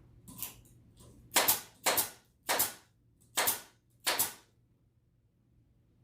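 Staple gun firing five sharp shots in quick succession, roughly every half second to second, after a couple of fainter clicks, fastening the stretched bed felt to the pool table.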